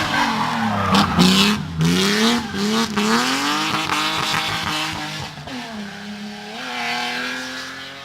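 Race car engine revving hard, its pitch climbing and dropping several times as it changes gear, with a few sharp cracks about a second or two in. It then holds a steadier note and fades as the car drives away up the hill.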